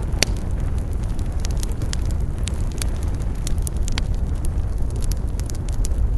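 Campfire burning with a steady low rumble and frequent sharp crackles and pops of burning wood, one loud pop just after the start.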